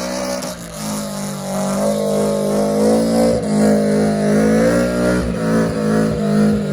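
Car engine revved and held at high revs, its pitch wavering slightly.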